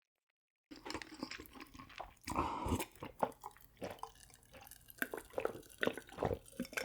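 Close-miked eating sounds: chewing and wet mouth smacks with small sharp clicks, starting suddenly about a second in, with a longer, louder noisy stretch about two and a half seconds in.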